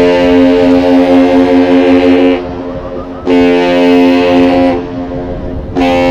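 Great Lakes captain's salute sounded on a big air horn: one long blast ending about two seconds in, then a short blast, then another short blast starting near the end. The salute is exchanged between the freighter and the Aerial Lift Bridge.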